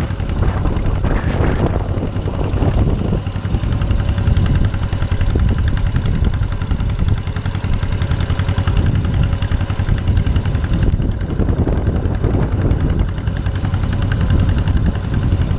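Small farm tractor's engine running while the tractor is driven, a steady rapid chugging of closely spaced exhaust pulses.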